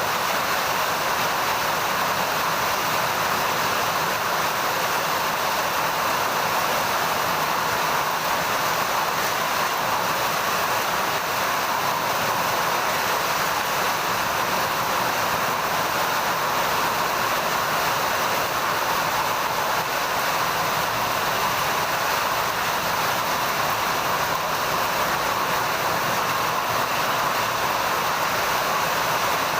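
Heavy rain falling steadily, an even, unbroken hiss of drops with no change in strength.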